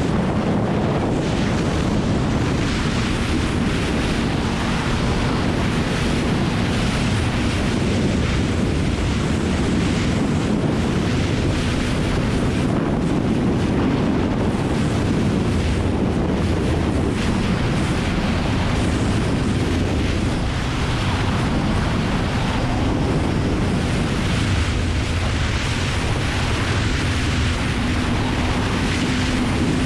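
Loud wind rush on a GoPro microphone at riding speed, with the Kawasaki ZX-9R's inline-four engine note running steadily underneath.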